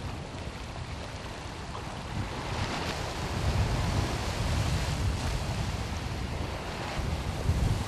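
Open-sea waves washing with wind buffeting the microphone in gusts; the water noise swells about halfway through.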